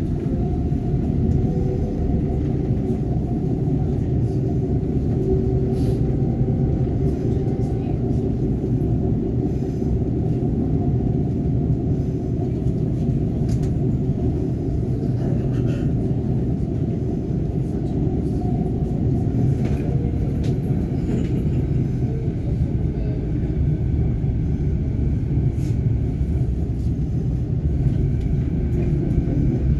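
Vancouver SkyTrain Canada Line train running between stations, heard from on board: a steady, deep rumble with faint whining tones above it.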